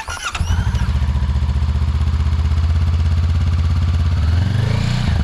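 Motorcycle engine cranked on the electric starter, catching within half a second and settling into a steady idle. Near the end it revs briefly with a short rise in pitch.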